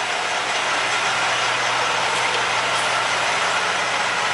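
Heavy diesel engine idling steadily, with an even hiss over a low hum.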